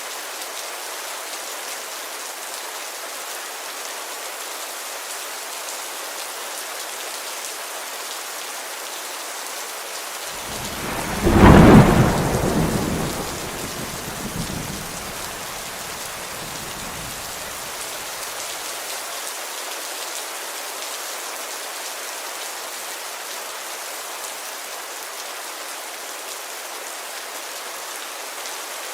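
Steady rain on a window, with one loud thunderclap about ten seconds in that rumbles away over the next several seconds.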